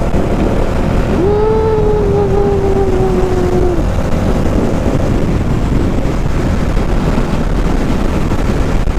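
Motorcycle on the move: steady engine and road noise with wind rushing over the microphone. A little over a second in, a single held tone joins for about two and a half seconds, sagging slightly in pitch before it cuts off.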